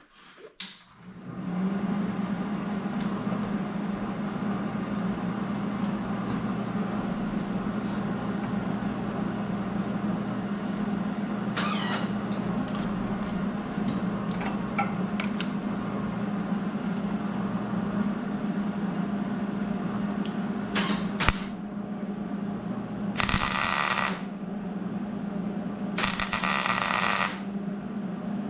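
Electric welder laying a bead onto a broken exhaust manifold stud to build it up above the cylinder head surface: a steady buzz and crackle for about twenty seconds, then three short bursts of welding near the end.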